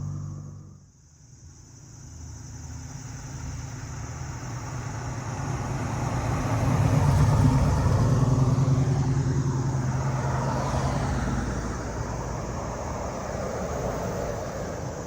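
A motor vehicle driving past. Its engine hum swells to a peak about halfway through, then fades.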